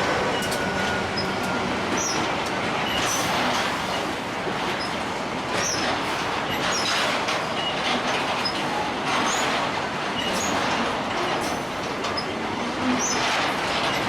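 Freight train wagons rolling past, wheels clacking over the rail joints again and again, with short high wheel squeals now and then.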